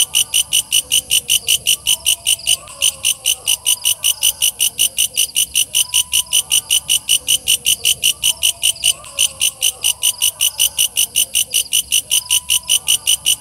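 Walang kecek katydid (bush cricket) calling: a loud, even train of high-pitched chirps, about five a second, that never breaks.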